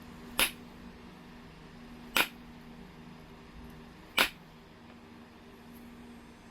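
Three sharp clicks about two seconds apart: a knapping tool striking heat-treated Oregon jasper and detaching flakes.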